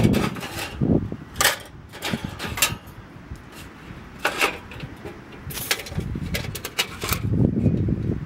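Campfire crackling: irregular sharp snaps and pops of burning wood, with low rumbling at the start and again about seven seconds in.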